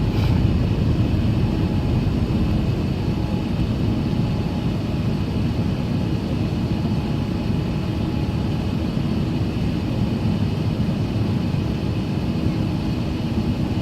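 Steady engine and airflow noise of an Airbus A380-800 heard from inside the cabin during takeoff, mostly low rumble with a faint steady whine above it, easing slightly in level.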